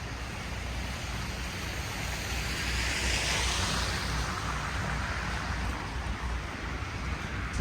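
Snowy city street ambience: a steady low rumble under a hiss that swells about three seconds in and fades, like a vehicle passing on a slushy road or a gust of wind.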